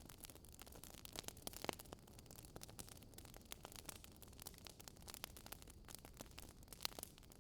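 Wood fire crackling faintly: irregular small pops and snaps over a soft hiss.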